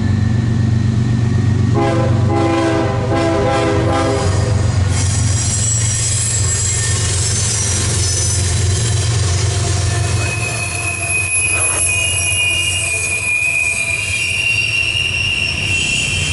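CSX freight train passing close by: three diesel locomotives go by with a deep steady rumble, sounding the horn for about two and a half seconds a couple of seconds in. The double-stack container cars follow, and from about ten seconds in a high steady wheel squeal grows over the rolling.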